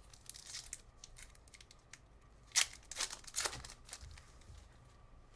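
Trading card pack wrapper and cards being handled: a brief rustle just after the start, then a few sharp, crisp crinkles and snaps around the middle.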